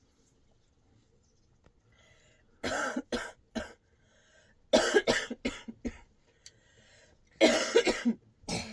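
A woman coughing from a cold in three bouts, each several coughs in quick succession. The first bout comes a few seconds in, the second about two seconds later, and the last near the end.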